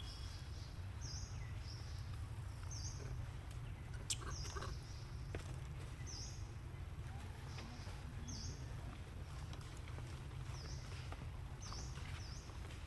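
A bird calling with short, high chirps repeated about once a second, over a steady low outdoor rumble. A single sharp click comes about four seconds in.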